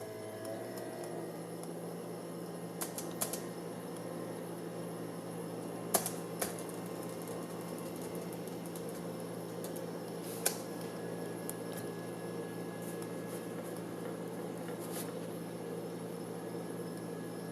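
Hand-twisted gyroscope spinning at a steady speed: a constant whirring hum with a grainy twisting noise, and a few sharp ticks scattered through it.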